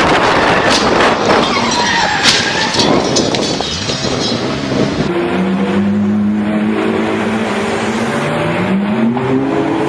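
Car sounds across a cut. First comes loud wind and road noise with a few brief high pitch glides. About halfway in, a car engine takes over, running steadily and then rising in pitch as it revs up near the end.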